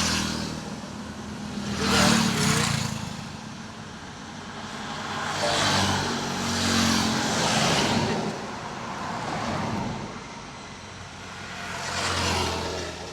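Road traffic: motor vehicles passing one after another, the sound of engine and tyres swelling and fading four or five times.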